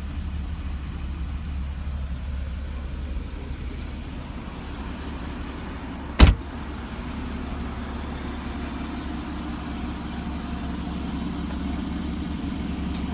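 A steady low rumble, like a car engine idling. One sharp knock about six seconds in is the loudest sound.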